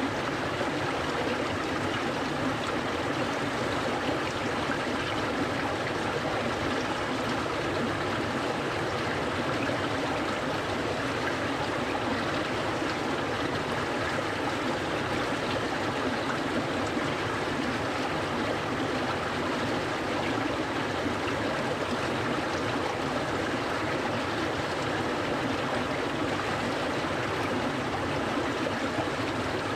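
Clear mountain stream flowing steadily over rocks, a continuous rushing and burbling of water.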